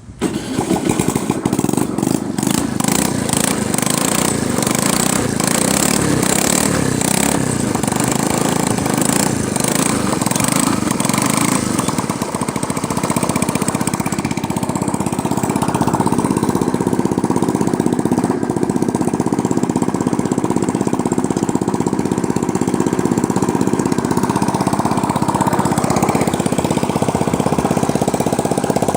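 Suzuki Address V50 scooter's 49cc four-stroke single-cylinder engine starting right at the beginning and running loud and open-piped with its muffler missing, somewhat uneven for the first ten seconds or so, then steady. It carries the abnormal engine noise the seller lists for this junk parts scooter.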